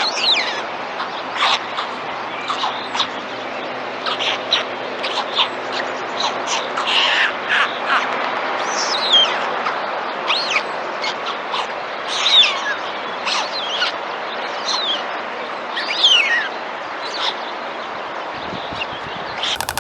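Birds chirping and calling, with many short, sharp notes and quick falling whistles over a steady background hiss.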